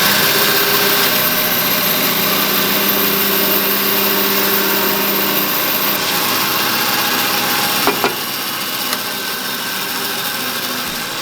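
Power tool motor running steadily, cutting down a block of cedar, with a sharp click about eight seconds in.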